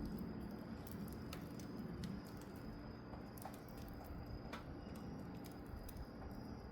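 Wood fire burning, with scattered sharp crackles and pops over a low steady rumble.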